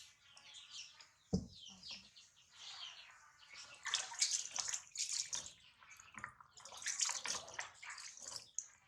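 Warm bathwater splashing and sloshing in a small tub as a newborn monkey is washed, in irregular bursts that are loudest around four and seven seconds in. A single dull knock sounds about a second and a half in.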